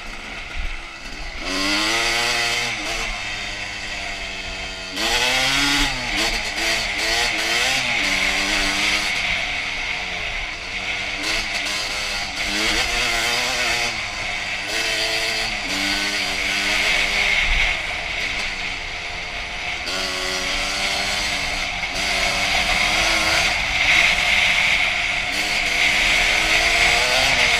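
Honda CR250's single-cylinder two-stroke engine revving up and down over and over as the dirt bike is ridden, with frequent throttle blips and gear changes.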